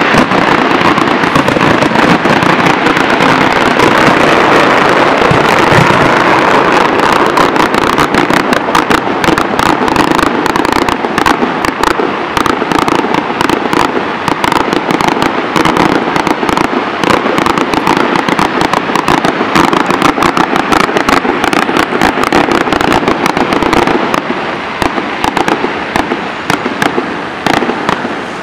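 Fireworks going off in a loud, dense barrage of rapid crackling that goes on without a break. Near the end it thins out and grows quieter.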